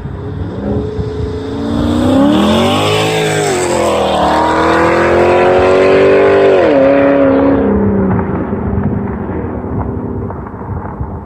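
Pontiac G8 GT's cammed 6.0-litre V8, with long-tube headers, accelerating hard. The revs climb, dip at a gear change about three seconds in and climb again. Near the middle the revs drop sharply and the engine settles into a lower, fading rumble.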